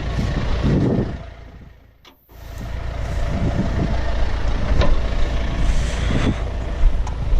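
Tractor engine running steadily with a heavy low rumble. The sound fades out briefly about two seconds in, then comes back at the same level.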